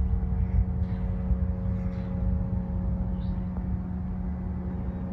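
An engine or machine running steadily nearby: a low rumble under a constant, even hum.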